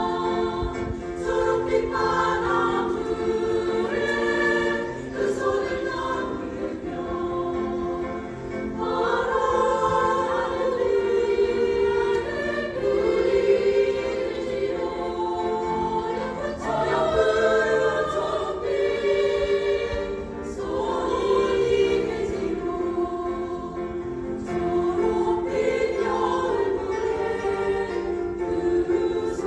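A choir singing in parts, holding sustained notes that change every second or two, with no break.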